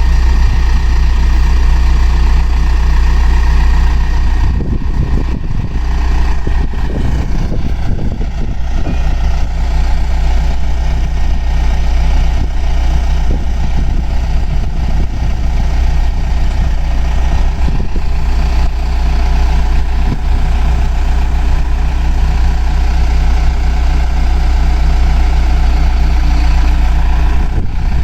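The diesel engine of an Asa Seaside Railway DMV (dual-mode bus-rail vehicle) running steadily, with a strong low hum.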